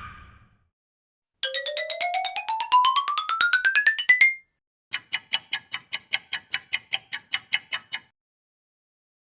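Two stock sound effects in turn: first a fast run of pulsed tones, about eight a second, climbing steadily in pitch for about three seconds; then, after a short pause, a high ringing beep at one steady pitch, repeated about five times a second for three seconds.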